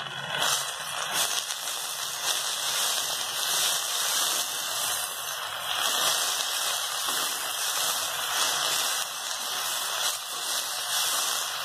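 Chopped elephant foot yam leaves sizzling in a hot metal pan as a spatula stirs and tosses them, a steady hiss with light scraping.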